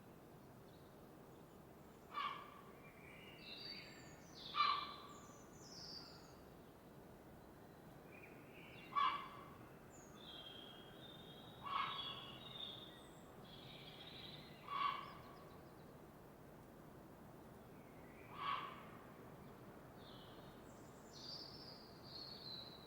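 Several birds calling: a short, loud call repeated six times, every few seconds, with fainter higher chirps and whistles between, over a faint steady hiss.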